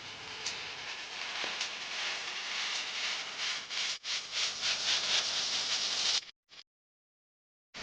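Quick repeated rubbing strokes, a hissy scratching that builds up and then cuts off abruptly about six seconds in.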